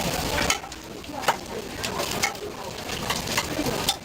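Irregular sharp clicks and knocks of cooking utensils at a street food stall, about six in four seconds, over a steady hiss.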